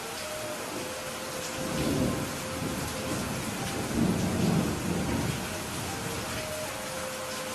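Steady rain falling, with thunder rumbling twice: a low roll about two seconds in and a louder, longer one a little past the middle.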